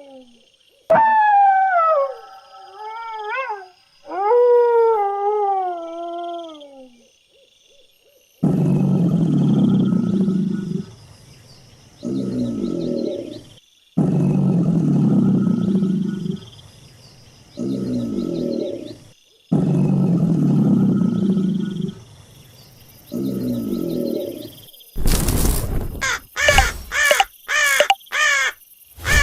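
A dog howling in long falling wails. Then a large animal's low, rough call, a long part followed by a shorter one, comes three times. Near the end a crow starts cawing rapidly.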